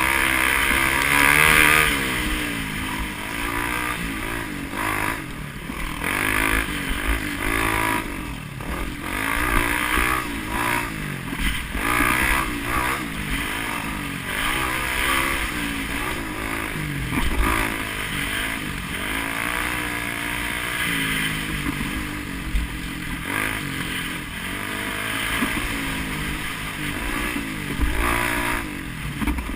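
Vehicle engine heard onboard, repeatedly revving up and dropping back as it accelerates and shifts through the bends, with rushing wind noise swelling and fading.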